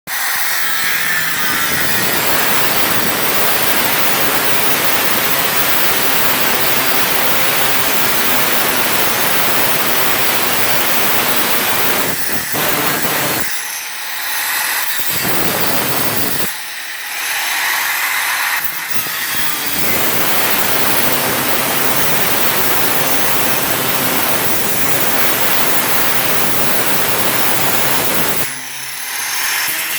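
Power tool cutting through a garage door panel, running steadily with a few brief letups, around the middle and near the end.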